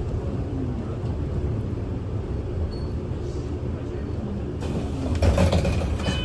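Inside a Kyoto City bus: steady low engine and road rumble, with a hiss coming in about four and a half seconds in.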